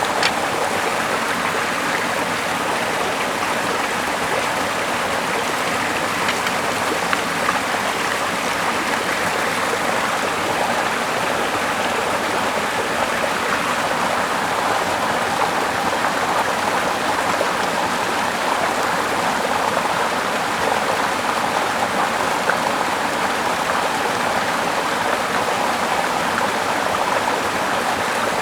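Small river flowing steadily, an even rushing of water.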